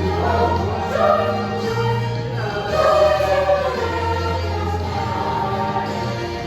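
School choir singing, with low sustained notes from an instrumental accompaniment underneath.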